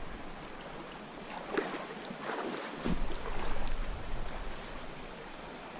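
Creek water running as a steady rush, with a few brief splashy bursts between about one and a half and four seconds in.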